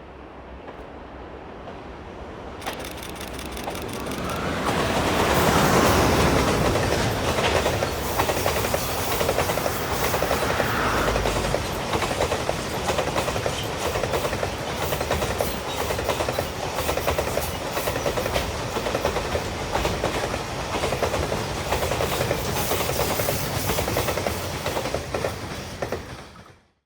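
EH200 electric freight locomotive approaching and passing close by, followed by a long string of Koki container flat wagons. Their wheels clatter rapidly and steadily over the rail joints. It is loudest as the locomotive goes by about six seconds in.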